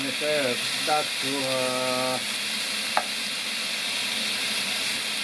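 Food frying in a hot pan, a steady sizzle with stirring. A sharp click sounds about three seconds in.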